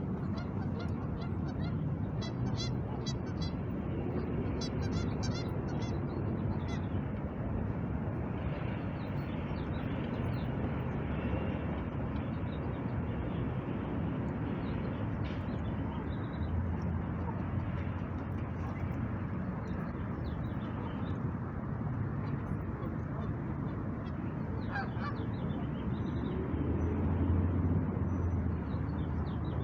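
Geese honking in a run of repeated calls over the first several seconds, with a steady low background rumble of the city running throughout.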